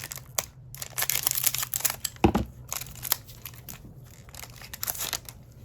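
Trading-card pack wrapper crinkling and tearing as it is opened by hand, in quick irregular crackles, with a single heavier thump about two seconds in.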